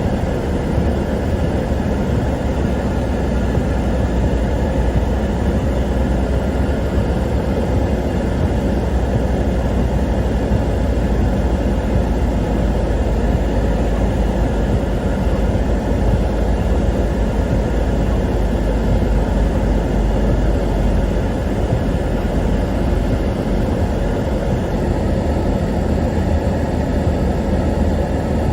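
A car driving on the road: a steady low rumble of engine and tyre noise that holds even throughout.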